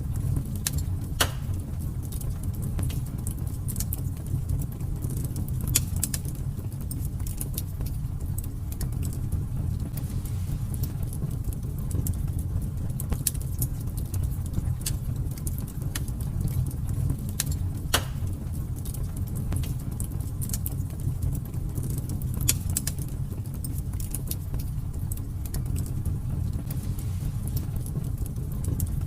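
Fire in a fireplace crackling: irregular sharp pops and snaps, a few louder than the rest, over a steady low roar of the flames.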